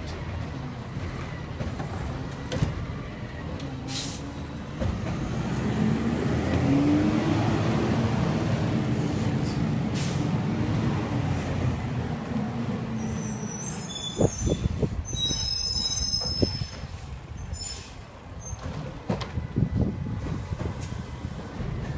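Garbage truck's diesel engine running, rising in pitch and revving for several seconds before it settles back. After that come a series of knocks and clanks with brief high squeals.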